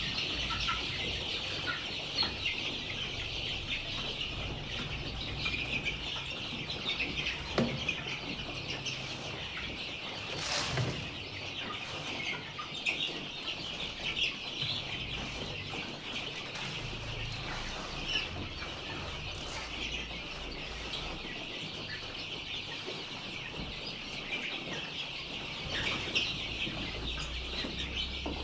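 A flock of poultry clucking and chattering steadily, many birds calling at once, with a brief burst of rustling noise about ten seconds in.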